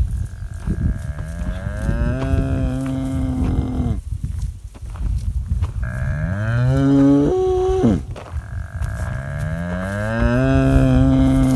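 Cattle mooing: three long, low calls, each rising in pitch and then held before breaking off.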